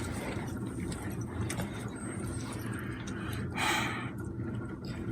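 Storm ambience: a steady low rumble with faint scattered crackles, and a short hiss about three and a half seconds in.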